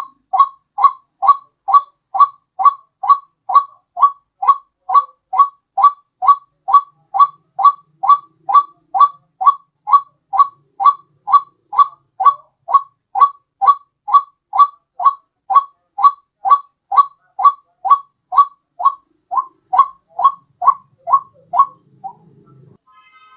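White-breasted waterhen calls played as a bird lure: one short two-pitched note repeated monotonously, a little over two a second, breaking off near the end.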